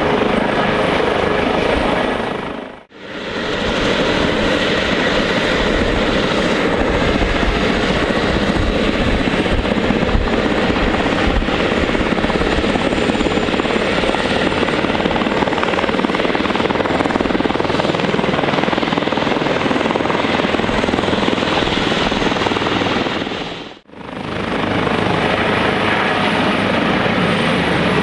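Airbus H145 twin-turbine helicopter running loud and steady. The sound drops out briefly twice, about three seconds in and near the end, at edit cuts.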